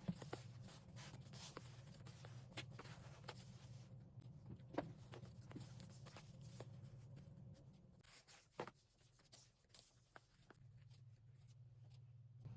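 Faint handling of paper and card: scattered light taps, slides and rustles, over a low steady hum.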